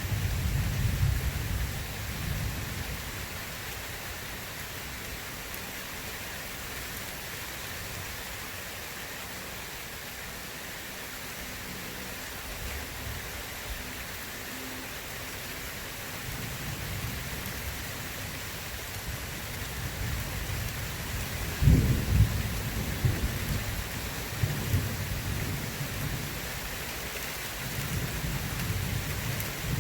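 Steady rain falling, with rolling thunder rumbling in and out; a louder, sharper thunderclap breaks about two-thirds of the way through and trails off into rumbling.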